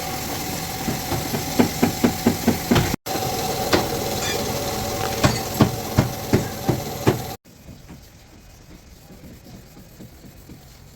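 Hammer blows on car body sheet metal during dent repair, sharp strikes coming several a second in quick runs over a steady hum. About seven seconds in the sound cuts off suddenly, leaving only faint tapping.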